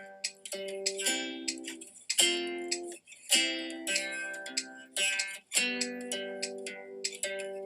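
Acoustic guitar strummed chord by chord, each chord struck sharply and left to ring and fade, with the chord changing about every second.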